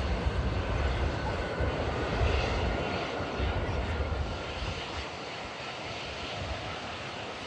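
Airliner engines running as a plane comes in to land, with gusts of wind buffeting the microphone in heavy low rumbles through the first five seconds before easing.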